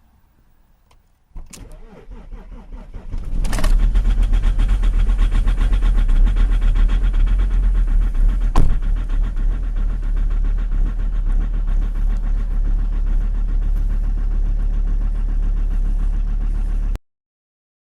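Alfa Romeo 156 2.4 JTD five-cylinder common-rail diesel cold-started at about −22 °C: the starter cranks for about two seconds, the engine catches and then idles steadily. A single sharp click about eight and a half seconds in.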